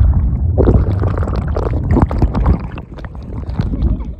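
Wind buffeting the microphone, a heavy low rumble, with scattered knocks and rustles throughout.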